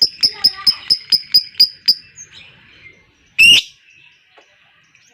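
Lovebird's ngekek chatter: a fast run of sharp, evenly spaced notes, about four to five a second, that slows and stops about two seconds in, followed by one loud harsh call. This is the long trill played as bait to set other lovebirds chattering.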